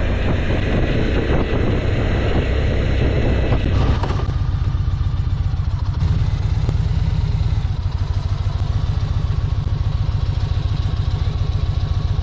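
Motorcycle engine running under way, a rapid low pulsing from its firing that continues throughout. The character of the sound changes abruptly about four seconds in.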